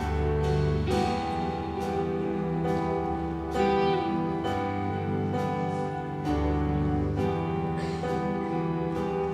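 Worship band playing an instrumental interlude: sustained chords over a steady bass line with a light regular beat, no singing.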